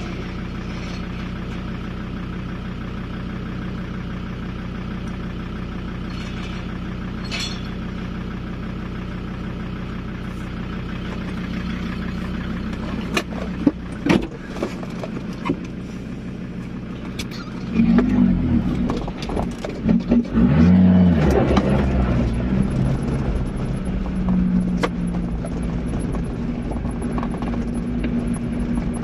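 A 4x4's engine idling steadily, with a few sharp clicks and knocks about halfway through, then revving up louder as the vehicle pulls away along a gravel track.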